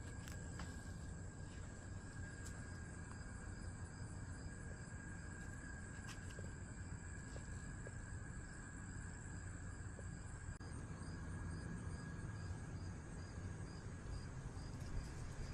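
Insects trilling steadily, several at once: a high continuous trill stops about two-thirds of the way through, while a pulsing trill goes on, over a low rumble.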